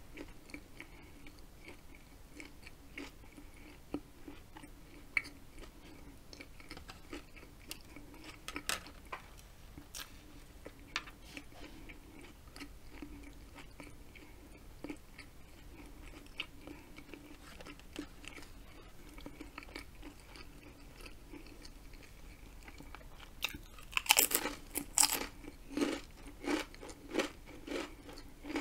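A person chewing with quiet, scattered mouth clicks, then, near the end, biting into and chewing a ridged potato chip with a run of loud crunches.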